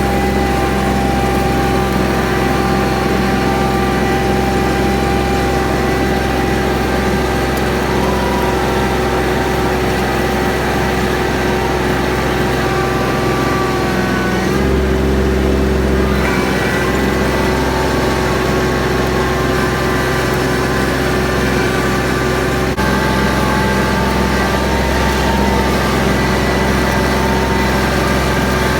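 Truck engine running steadily under way, its pitch shifting briefly about halfway through with a short swell of low hum, then settling again.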